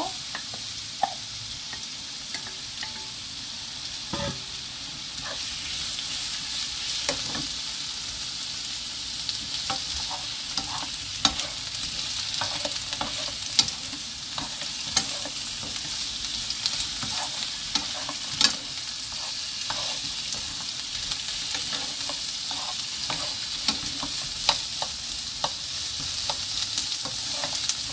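Salted cucumber slices stir-frying in oil and minced garlic in a nonstick frying pan: a steady sizzle, with frequent clicks and taps of two wooden spatulas tossing the slices against the pan.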